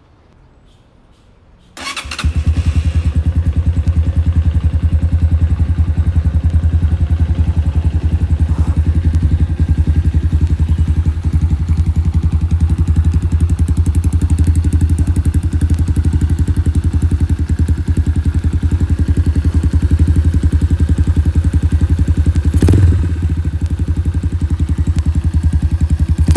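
Iron Horse 180cc motorcycle engine starting about two seconds in, then running steadily. There is a short sharp knock near the end, after which the engine runs a little quieter.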